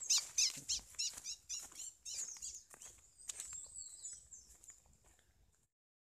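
Small bird held in the hand giving rapid, repeated sharp chirps, about three a second, that grow fainter after about two seconds and die away shortly before the end.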